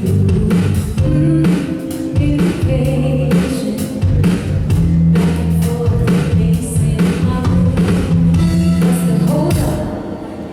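Live band playing a song, with a drum kit keeping a steady beat, guitar and a singing voice.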